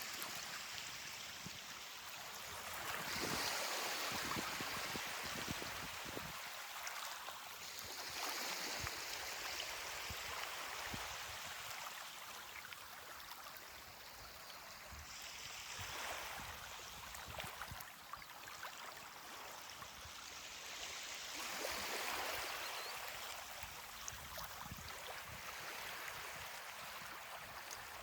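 Ocean surf breaking and washing up a beach, rising and falling four times, several seconds apart.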